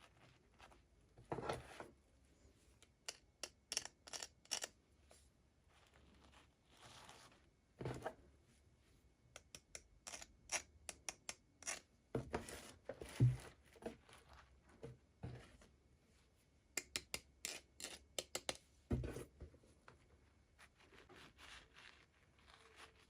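Toy doll packaging being opened by hand: irregular clusters of sharp clicks, snips and crinkles, with a few louder knocks.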